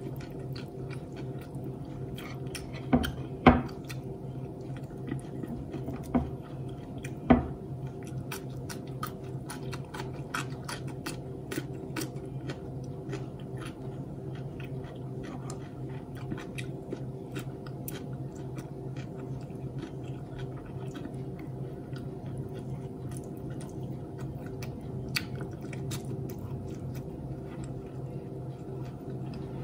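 Close-miked chewing and wet mouth clicks of a person eating by hand, with a few louder sharp bites or smacks in the first eight seconds, over a steady low hum.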